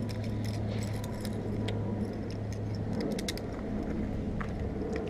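Light metallic jingling and scattered clicks, as of keys or small metal fittings being handled, over a steady low engine hum.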